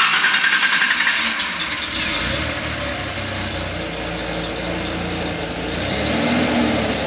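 1993 Ford Ranger's engine starting up and settling into a steady idle, exhausting straight out of the muffler with the tailpipe broken off behind it. It comes in loudest and uneven for about the first second, then evens out.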